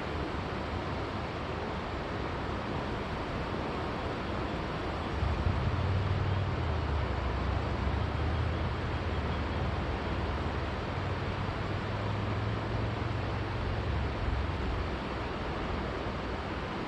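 River water flowing with a steady rushing sound. A low rumble joins about five seconds in and fades out about ten seconds later.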